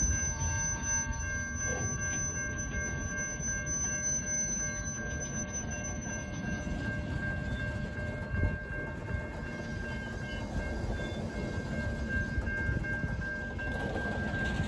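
Ballast hopper wagons of a works train rolling slowly along the track, a steady rumble of wheels on rail, with a thin steady high tone running through it.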